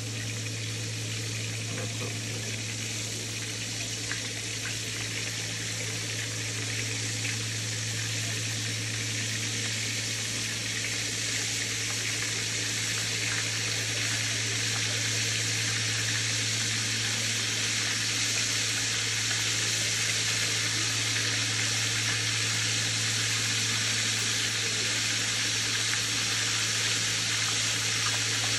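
Venison steaks frying in hot oil in a cast iron Dutch oven: a steady sizzling hiss that grows slightly louder, over a steady low hum.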